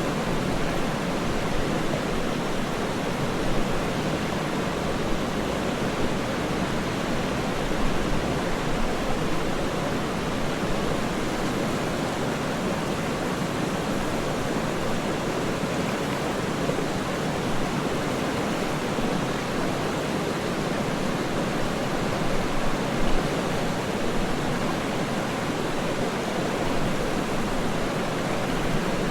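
Waterfall rushing: a steady, even wash of falling water with no distinct splashes or changes.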